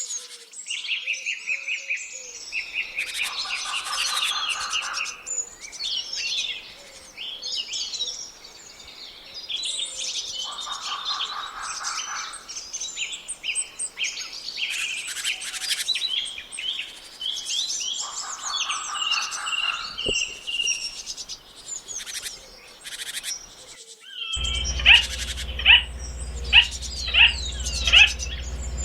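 Several birds singing and chirping together, with a buzzing trill that comes back about every seven seconds. Near the end the sound changes: over a low steady hum, a bird gives loud, sharp, repeated calls about twice a second.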